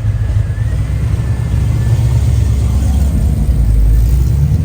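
A car engine running with a deep, steady rumble that grows louder about three seconds in.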